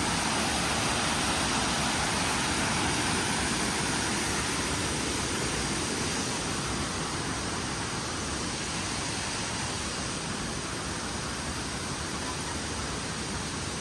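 Waterfall: a steady rush of falling water, growing slightly fainter over the stretch.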